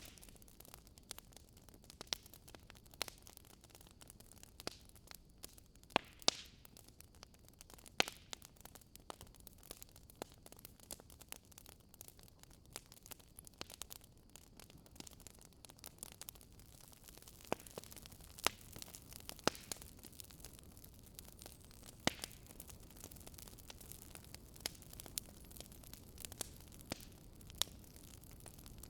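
Wood fire crackling in a fireplace: irregular sharp pops and snaps of burning logs over a faint steady hiss.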